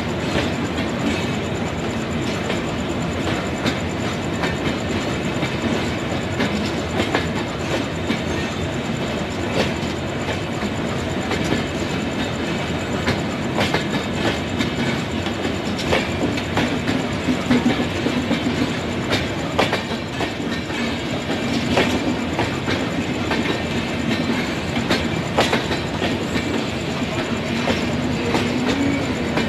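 LHB passenger coaches of an express train rolling past close by as it pulls out, a steady rumble with irregular clicks and knocks of the wheels going over rail joints and points.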